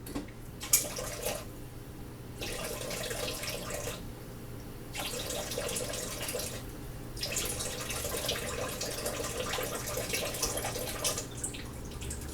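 Kitchen tap running in three short spells, turned on and off, as water is drawn for measuring by the tablespoon. A sharp click comes a little under a second in.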